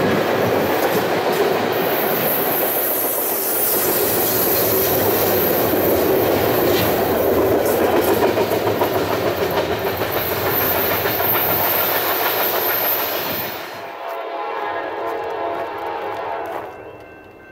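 Freight train rolling past close by, with steel wheels clattering over the rail joints as the container well cars go by. About 14 s in it cuts abruptly to a much quieter passage with a few held tones.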